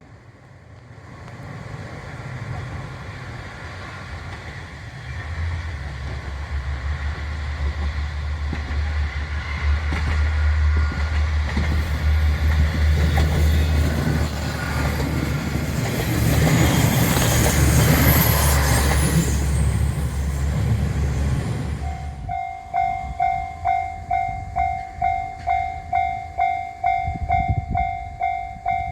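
A train passing with a low rumble that builds for about twenty seconds and peaks in a loud rush of noise, then stops abruptly. After that a Japanese railroad crossing bell dings steadily, about twice a second.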